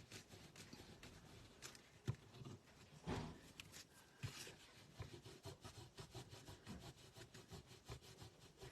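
Faint rubbing and handling of cardstock, with a few small taps about two and three seconds in: excess adhesive being rubbed off the edges of a handmade card.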